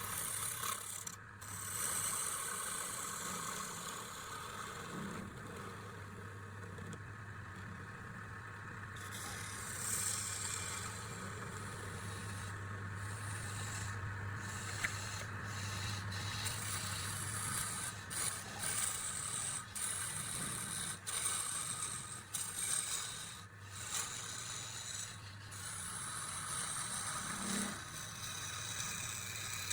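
Continuous scraping and rubbing of a tool on wood, varying in strength, over a steady low hum.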